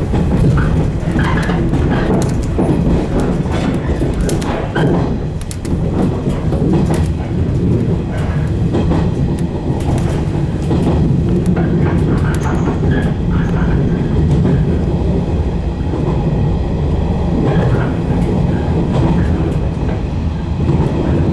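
115 series electric multiple unit running along the track, a steady rumble of wheels and motors with scattered clicks.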